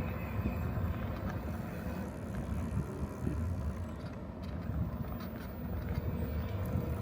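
Wind rumbling on the microphone of a moving bicycle, with tyres rolling on the road: a steady, uneven low rumble.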